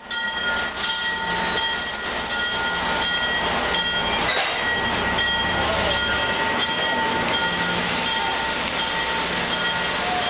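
MBTA commuter rail coaches rolling slowly past the platform: steady noise of wheels and running gear with several high, steady squealing tones held over it.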